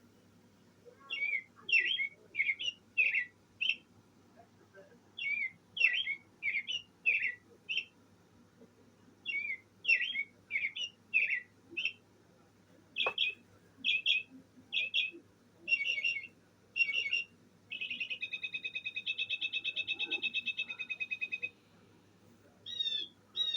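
Recorded bird songs played through a bird clock's small speaker: three phrases of quick, repeated downward-sliding whistles, a single click, then a run of separate notes and a long rapid trill.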